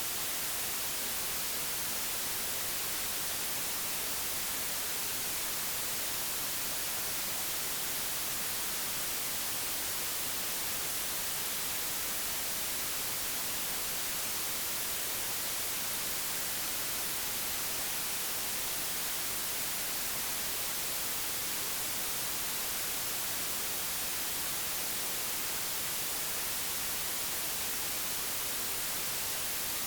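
Steady digitally generated white noise, an even hiss with no change or events, used for masking background sound.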